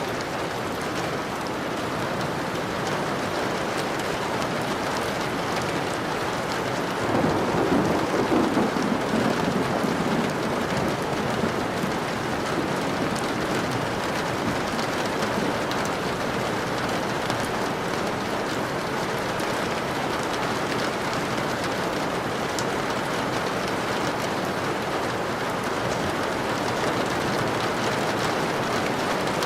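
Steady rain falling. About seven seconds in, a low roll of thunder swells for a few seconds and fades.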